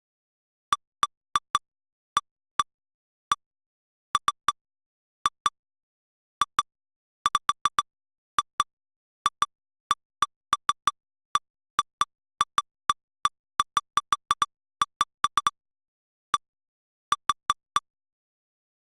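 Short, identical electronic blips, each a brief tone near 1 kHz, coming at irregular intervals and sometimes several in quick succession, with dead silence between them. These are lightning-detection software's alert sounds, each one marking a recorded lightning strike as the day's strike history is replayed.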